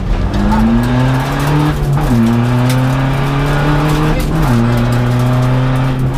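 Seat Ibiza TDI rally car's turbodiesel engine heard from inside the cabin, accelerating hard through the gears. The pitch climbs, drops at an upshift about two seconds in, climbs again, and drops at a second upshift about four and a half seconds in.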